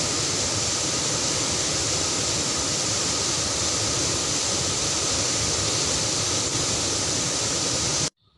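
Swollen stream in flash flood, water rushing steadily; it cuts off abruptly near the end.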